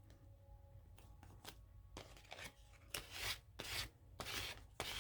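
Paper being worked by hand, cut, rubbed or smoothed down: a run of short scratchy strokes, sparse and faint at first and louder and closer together from about three seconds in.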